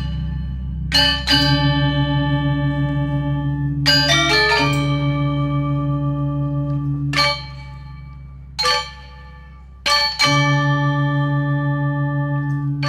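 Music of struck, bell-like metal percussion: a stroke every one to three seconds, each tone ringing on with shimmering overtones, over a steady low drone.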